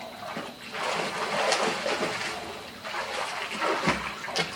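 Water splashing in a swimming pool in irregular surges, with a dull thump and a sharp splash near the end.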